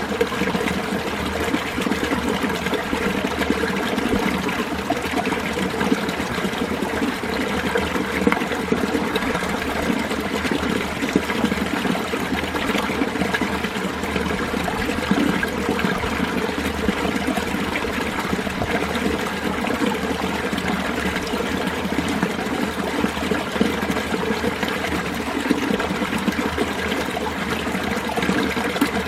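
Winter mountain stream: clear water running and trickling over rocks in a steady, unbroken flow.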